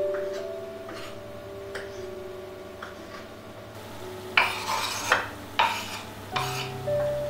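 A metal utensil stirring and clinking against a dish, about six sharp clinks and scrapes in the second half, over soft background music.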